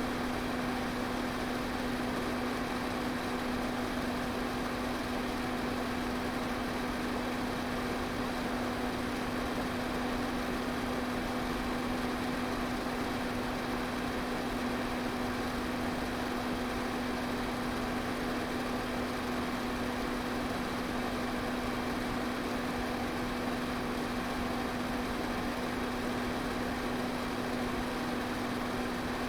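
Electric pedestal fan running steadily: an even whooshing rush of air with a steady low motor hum underneath, unchanging throughout.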